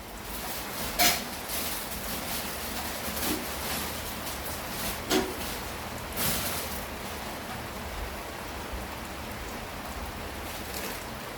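Steady rain falling hard, with a few sharper taps standing out, about a second in and again around five and six seconds.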